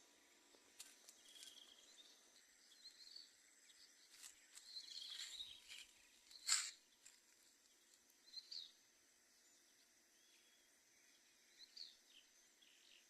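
Faint dawn chorus of tropical forest-edge birds: scattered short chirps and calls, with one louder, sharper call about six and a half seconds in. A faint steady high insect drone runs underneath.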